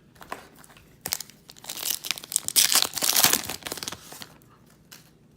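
Foil wrapper of a trading card pack being torn open and crumpled: a dense crinkling and crackling that starts about a second in and dies away after about four seconds.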